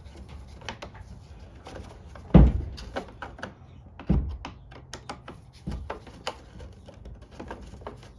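Parts on a Briggs & Stratton mower engine being handled and taken off by hand: a run of small clicks and knocks, with two loud thunks a little under two seconds apart and a lighter one after.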